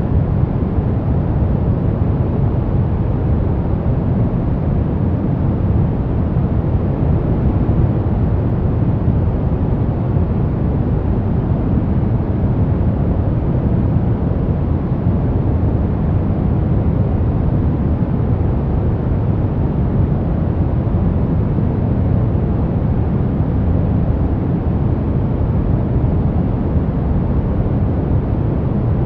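Continuous white noise for baby sleep, deep and even, with most of its weight in the low end and little hiss on top. It holds steady without any change.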